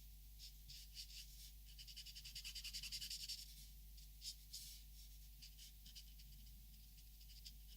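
Drawing on paper: faint, soft scratchy strokes with a quick run of short back-and-forth strokes about two seconds in.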